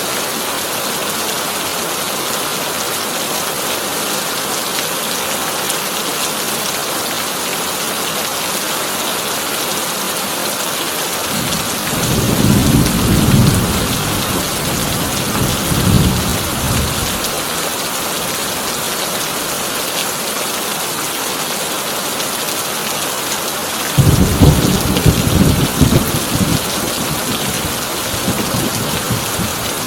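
Heavy rain drumming steadily on a corrugated tin roof, with two rolls of thunder: one building up and rumbling a little before halfway, and a sharper, louder crack and rumble a little past two-thirds of the way through.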